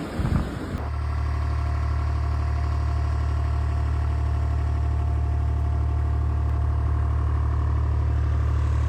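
A short stretch of noisy wind-like rush cuts off, and an engine takes over, running steadily at idle with a low, even drone.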